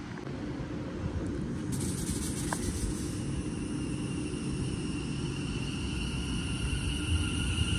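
West Midlands Railway electric multiple unit moving along the platform: a steady electric whine from about three seconds in over a low rumble that grows louder near the end.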